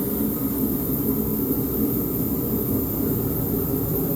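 Stihl chainsaw on an Alaskan chainsaw mill, running steadily at high revs.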